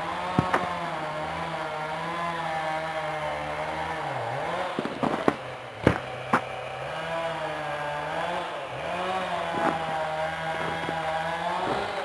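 Two-stroke chainsaw running at high revs, its pitch sagging and recovering as it bogs under load cutting ice-broken tree limbs. Several sharp cracks or knocks break in over the engine.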